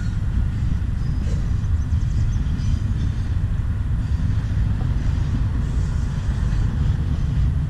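Freight train rolling past, a steady low rumble with no distinct clanks or horn.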